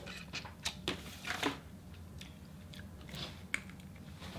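A person chewing food from a seafood boil, with soft mouth sounds and a handful of sharp clicks and crackles. Most of these fall in the first second and a half, with a couple more a little after three seconds.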